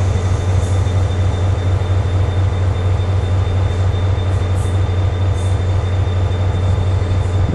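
ITX-Cheongchun electric multiple-unit train running away from the listener as it departs, a steady low rumble with a thin, steady high tone over it and faint brief high hisses every second or so.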